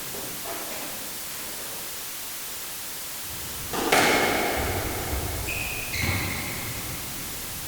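Sports practice ambience recording: a steady hiss of room noise, then about four seconds in a sudden burst of activity with several high-pitched squeaking tones and a couple of low thuds, fading back to the hiss.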